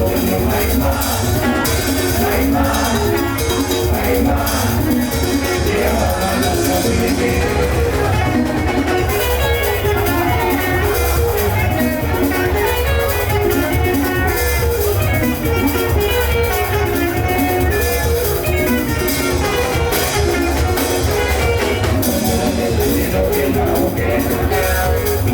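Live band music with guitar and drums over a strong, steady bass line.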